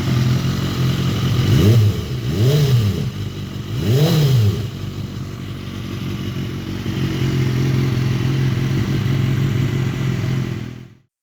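2010 BMW S1000RR's 999cc inline-four engine idling through its exhaust, blipped three times in quick succession, each rev rising and falling back, then idling steadily until the sound cuts off near the end.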